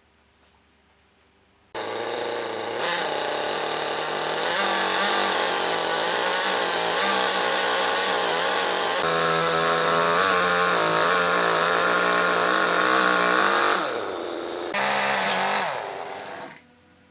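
A power tool starts suddenly about two seconds in and runs loudly and steadily under load, cutting wood. It drops off briefly, starts again, and stops just before the end.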